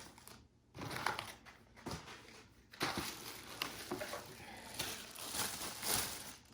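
Plastic vacuum parts being handled: irregular rustling, crinkling and small clicks as the stick vacuum's attachments are picked up and turned over.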